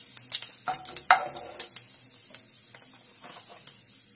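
Cumin seeds sizzling in hot oil in a nonstick kadhai while a spatula stirs them, with sharp ticks and knocks of the spatula against the pan. The knocks come thickest in the first two seconds, then thin out to a faint sizzle.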